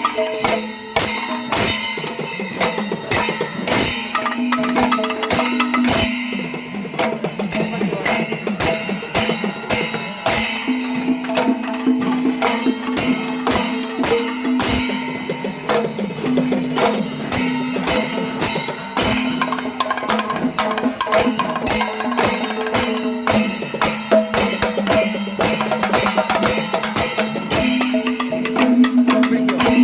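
Kerala temple percussion ensemble (melam) playing: dense, rapid drum strokes with held tones sounding over them.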